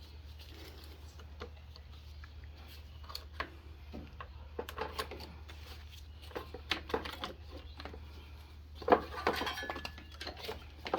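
Small metal tools and parts clinking and tapping as hands work on a lawn tractor's engine, with scattered light clicks and a busier, louder run of clinks about nine seconds in. A steady low hum runs underneath.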